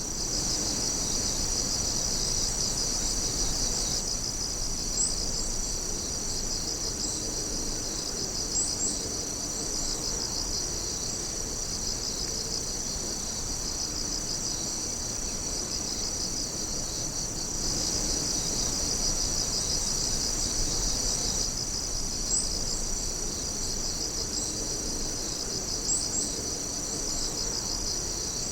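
A chorus of night insects, crickets among them, chirping and trilling steadily and high-pitched. A few short, sharper high chirps stand out four times.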